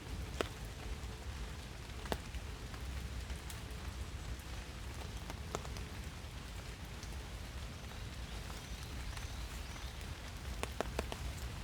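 Steady rain falling in a forest, a constant hiss with scattered single drops striking close by, several in quick succession near the end.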